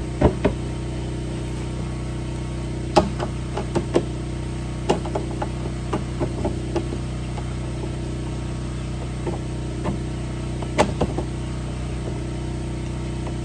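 A steady mechanical hum made of several constant low tones, like an idling engine, with sharp clicks and knocks scattered through it, the loudest about 3, 4, 5 and 11 seconds in.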